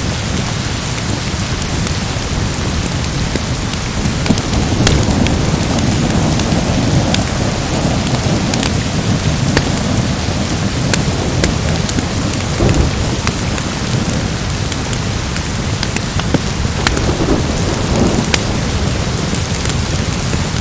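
Steady heavy rain with a low rolling rumble of thunder that swells about four seconds in and fades back over several seconds, under scattered sharp crackles of a wood fire.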